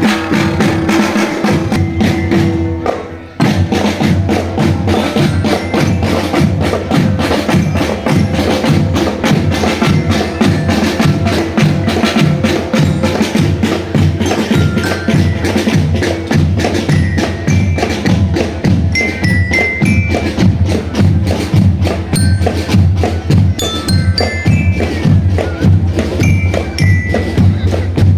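Marching drum band playing a fast, steady beat on drums, which breaks off briefly about three seconds in and then resumes. In the second half, short high bell-lyre (glockenspiel) notes play a melody over the drums.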